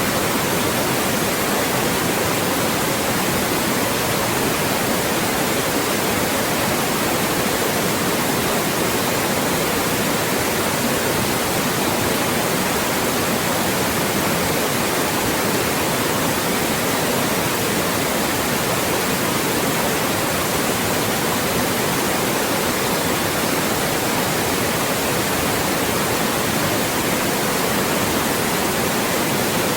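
Loud, steady white noise: an even hiss across the whole range of pitches, unchanging throughout.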